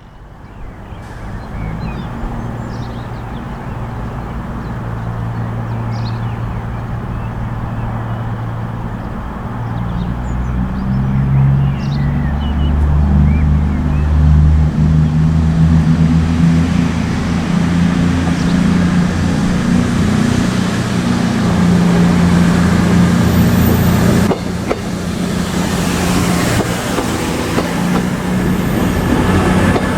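Diesel train engine running and growing louder as the train draws near, its deep note stepping up and down in pitch. Faint bird chirps are heard early on.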